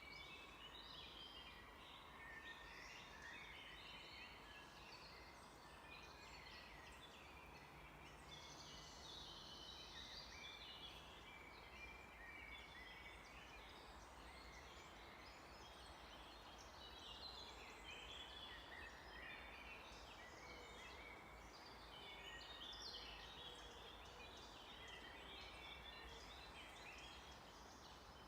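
Faint chorus of small songbirds, many short chirps and trills overlapping throughout, over a soft steady hiss.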